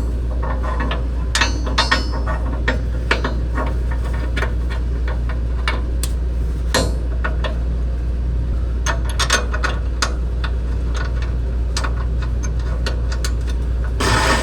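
Irregular metallic clicks and taps of hand tools on the front suspension parts, over a steady low hum.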